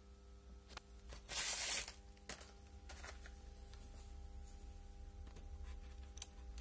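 Light handling noises: a few sharp clicks and one short rustling burst about a second and a half in, over a steady low electrical hum.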